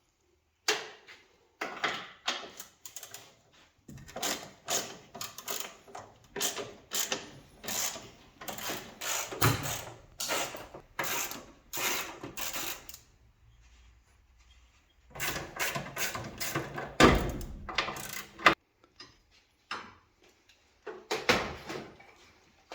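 Irregular metallic clicks, clinks and knocks of hand tools and loose metal car parts being handled, coming in dense clusters broken by short pauses.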